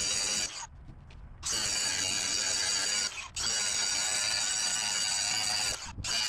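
Welding arc crackling steadily in bursts as a patch plate is welded onto a truck fender. It stops for about a second half a second in, briefly again around three seconds in, and once more near the end, restarting each time.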